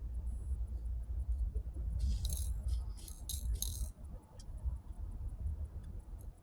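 Small gold nuggets and flakes poured onto a digital scale, clinking and rattling in short spurts from about two seconds in until about four seconds in, with a few faint clicks after. A low steady rumble runs underneath.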